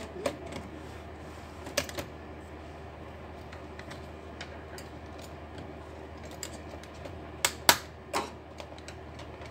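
Scattered small clicks and taps of tools and plastic laptop parts being handled during the repair, with three sharper, louder clicks about seven and a half to eight seconds in, over a steady low hum.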